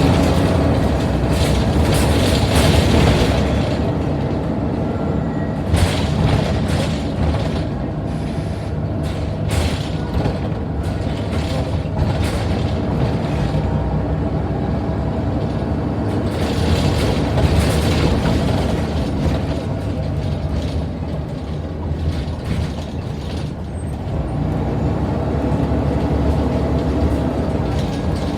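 Scania N94UD Omnidekka double-decker bus running on its route, its diesel engine humming steadily under many clicks and rattles from the bodywork. The sound swells near the start and again about two-thirds of the way through.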